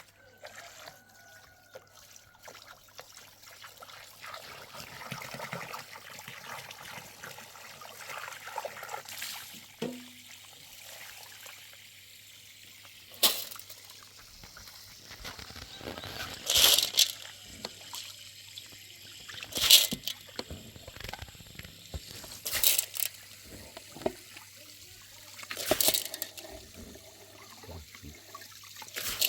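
Water trickling and dribbling, then poured or sloshed in a series of loud splashes, about one every three seconds in the second half, as in washing by hand.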